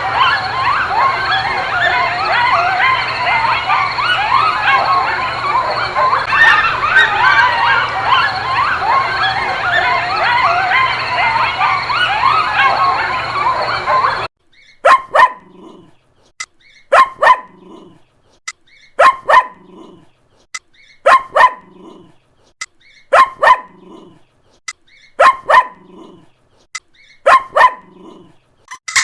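A colony of bats squeaking and chattering in a dense mass of short chirps, which cuts off about halfway through. Then a dog barks in pairs, about every two seconds.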